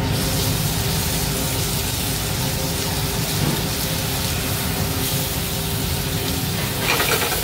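Potatoes and roasted red peppers sizzling in browned butter in a steel sauté pan over a gas burner: a steady hiss, with a short clatter near the end.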